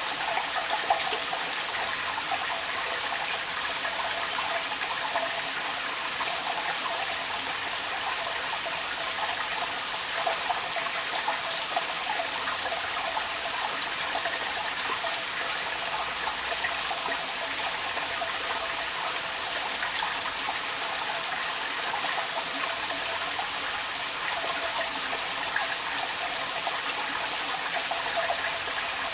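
Rain falling with water running and splashing steadily out of a downpipe, a continuous hiss with scattered small splashes.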